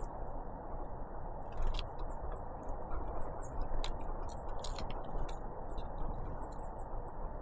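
Great tits and blue tits feeding close to the microphone: irregular sharp ticks and taps of beaks and feet, a few louder around two seconds in and near the middle, with a few short high calls over a steady low hiss.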